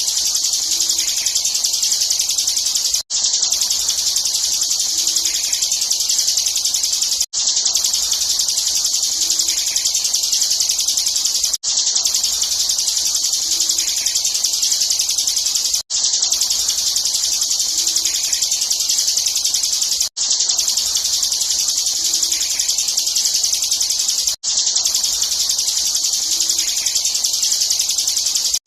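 Bar-winged prinia (ciblek) singing a rapid, unbroken, high-pitched chatter. It is a short recording looped, with a brief drop-out at each join about every four seconds.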